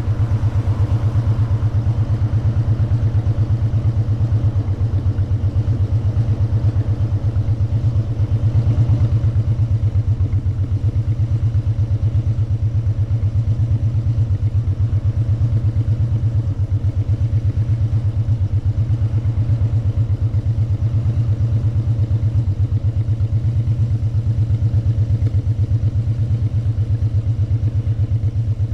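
Motorcycle engine running steadily with an even low pulsing exhaust note, heard from the rider's seat.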